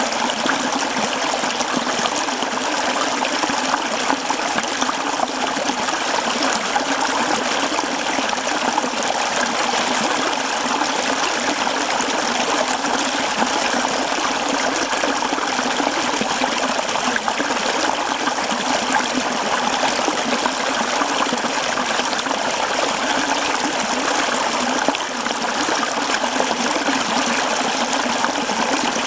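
Mountain stream flowing over rocks, a steady rushing and trickling of water with no letup.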